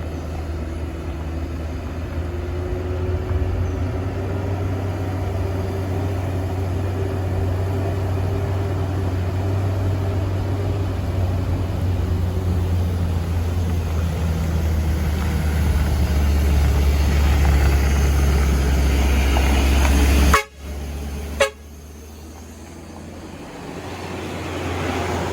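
Heavy diesel truck engine labouring up a steep climb, a deep steady drone that grows louder over about twenty seconds, then cuts off abruptly, with a short sharp sound about a second later before a quieter engine sound builds again near the end.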